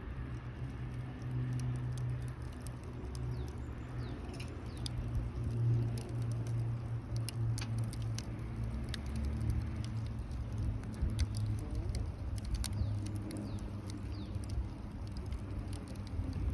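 Small wood campfire crackling, with many sharp, irregular pops over a steady low rumble.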